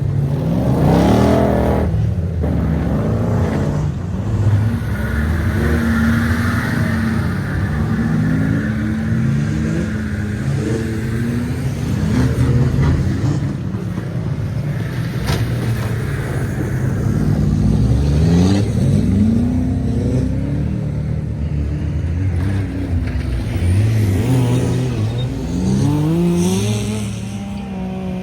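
Several off-road race trucks' engines revving hard together, their pitches repeatedly rising and falling and overlapping as they accelerate and change gear, with one sharp knock about halfway through.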